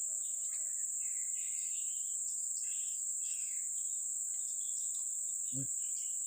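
Steady high-pitched trilling of an outdoor insect chorus, with faint scattered chirps over it.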